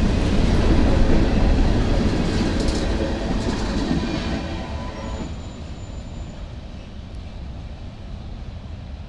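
CSX freight train's cars rolling past on the rails. The noise dies away about five seconds in as the train moves off.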